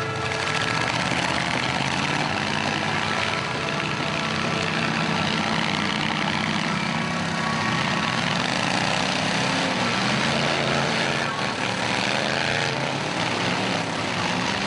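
Engines of several demolition-derby cars and trucks running and revving together in a loud, steady din, their pitches shifting up and down.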